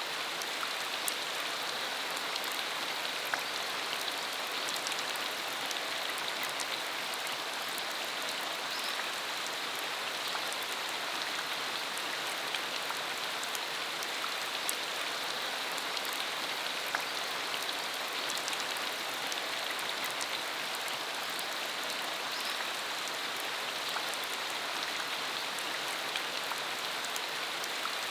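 Steady rain falling on a country dirt road: an even hiss scattered with many small, sharp drop ticks.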